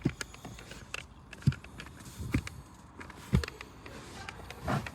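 Three soft, low thumps about a second apart, with faint clicks and rustling between them: handling noises as a car's carpets and interior are felt and moved about.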